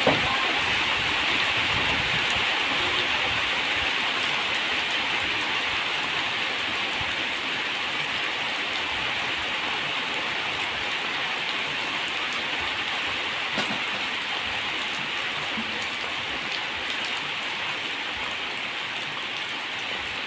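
Steady rain falling, an even hiss that eases slightly toward the end.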